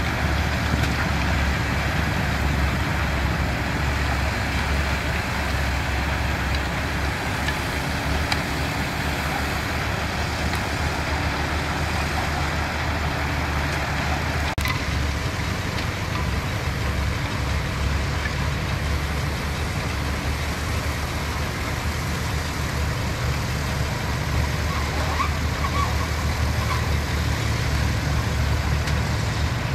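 Diesel engines of heavy construction machinery, bulldozers and dump trucks, running steadily with a low hum. The sound changes abruptly about halfway through, at an edit.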